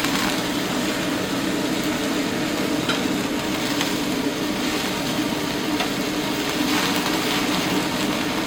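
Thin slices of meat sizzling on a tabletop yakiniku grill, a steady hiss with a few faint crackles, over a constant low hum.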